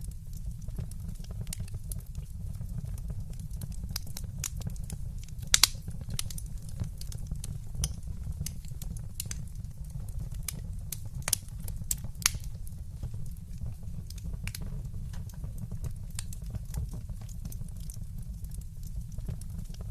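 Fireplace fire crackling, with scattered sharp pops over a steady low rumble. A few louder pops stand out: two close together about a quarter of the way in, and two more a little past halfway.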